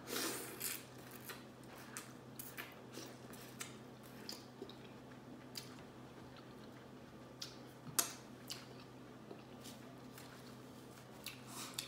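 Close-up eating sounds: biting into and chewing buttery corn on the cob, with wet mouth smacks and scattered small clicks, the densest in the first second. A sharp click stands out about eight seconds in.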